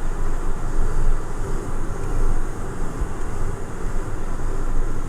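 Steady cabin noise inside the cockpit of a Cessna Citation 550 (Citation II) business jet on approach: rushing airflow and the hum of its turbofan engines at reduced power. The noise is heaviest in the low rumble and stays even throughout.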